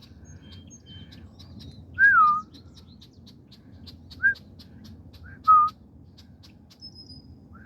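Small birds giving alarm calls at an intruder near their nest: four loud, short whistled notes that dip and rise in pitch, the first and longest about two seconds in, over a rapid string of faint high chips.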